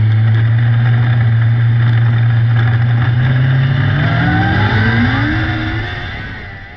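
600cc micro sprint car engine running at a steady speed, then revving up in a rising pitch about four seconds in, before fading out near the end.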